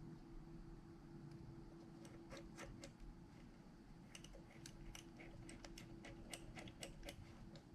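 Faint small clicks and taps, a dozen or more in quick, irregular succession from about two seconds in, over a steady low hum.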